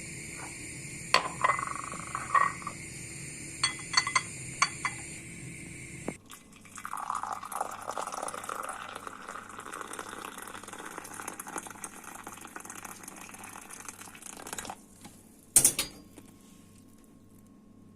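A few light clinks of dishes over a steady hum. Then liquid pours steadily for about eight seconds, and one sharp click follows near the end.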